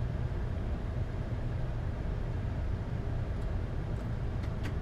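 Steady low rumble inside the Boeing 747-8's cockpit, the constant engine and airframe noise of the aircraft, with a faint click near the end.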